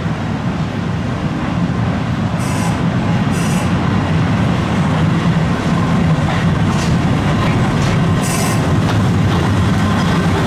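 Kurobe Gorge Railway narrow-gauge train, hauled by two orange electric locomotives, running past close by on curved track: a steady low rumble, with brief high-pitched wheel squeals about four times.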